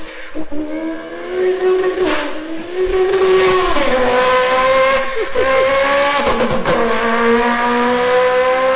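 A person vocally imitating a sports car's engine with a turbo: held engine-like notes that step up and down in pitch like gear changes, with short hissing whooshes like a turbo blow-off, the first two in the opening seconds.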